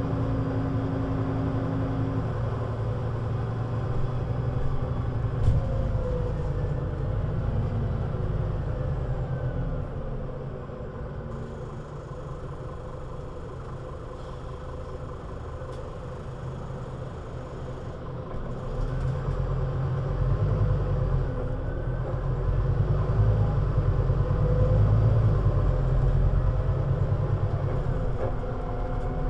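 Scania CN320UA articulated city bus's nine-litre five-cylinder diesel engine running. It drops to a quieter spell in the middle, then about two-thirds of the way in it builds again with a rising engine note as the bus pulls away and accelerates.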